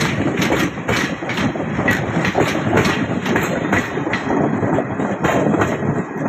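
Gangasagar passenger train on the move, its wheels clacking over rail joints a few times a second above a steady rumble. The clacks thin out near the end.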